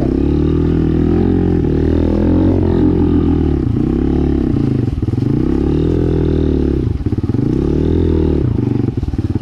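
Dirt bike engine running loud and close, revving up and dropping back several times in a row as the throttle is worked.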